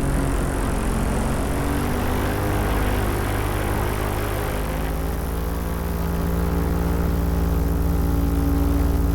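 Paramotor engine and propeller running steadily. About five seconds in, the hiss over it fades and the engine note settles into a clearer, steadier hum.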